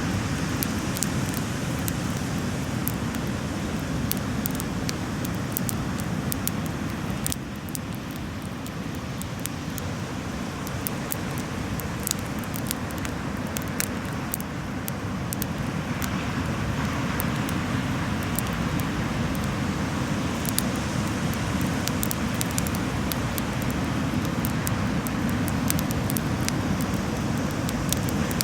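Beach bonfire crackling, with frequent sharp pops and snaps over a steady low rumble.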